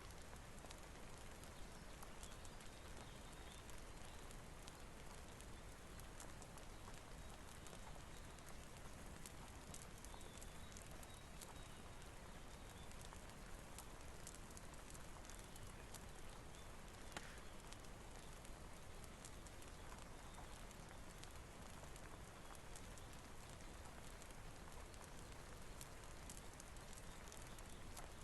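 Faint, steady rain hiss with a wood fire crackling: scattered sharp pops and snaps over an even wash of noise.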